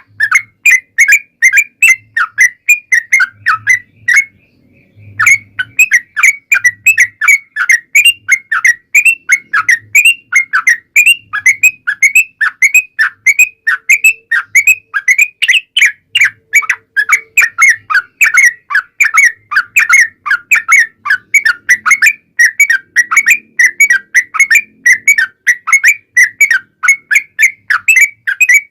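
Yellow-vented bulbul (trucukan) singing a long, unbroken run of rapid chattering notes, about three or four a second. There is a short pause about four seconds in.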